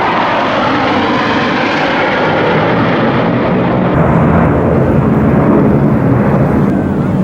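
Military jet aircraft flying past, a loud steady engine roar with a slight falling pitch, changing abruptly about four seconds in to a deeper rumble.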